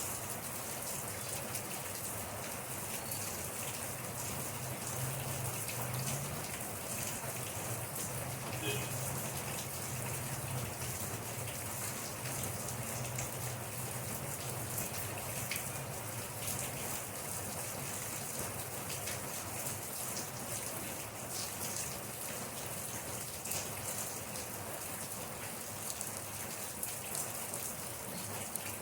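Steady rain falling and pattering on a surface, with many small drop ticks throughout and a faint low rumble underneath.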